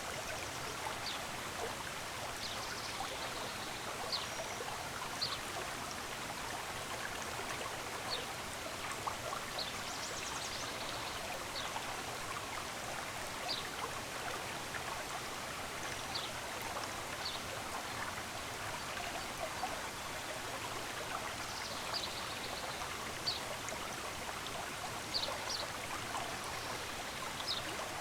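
Stream running steadily, with short, high bird chirps scattered over it every second or two.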